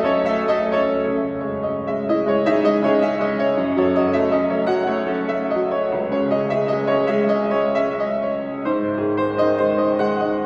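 Solo piano playing a slow piece of sustained, ringing chords that change every second or two, with a new deep bass chord struck about nine seconds in.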